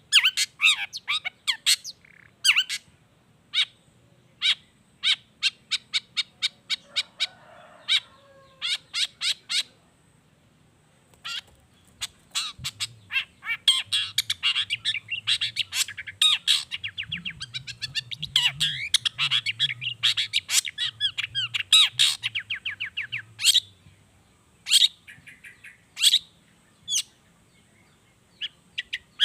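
Long-tailed shrike (cendet) singing: a fast string of sharp chirps and harsh squawks, broken by a short pause, then long runs of rapid trilled notes. The song is filled with copied calls of wild birds.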